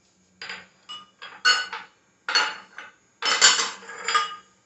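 Kitchen utensils and dishes clinking: about five short, ringing knocks and clatters with pauses between them, the longest and loudest clatter about three seconds in.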